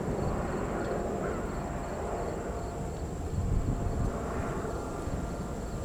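Low, steady rumble of jet airliner engines, swelling and easing slightly.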